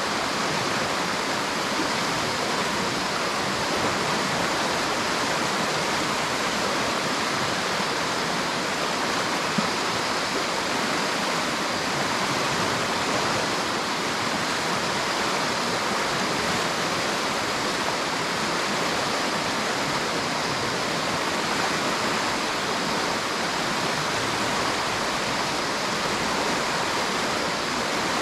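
River water rushing steadily over rocks: a constant, unbroken rush.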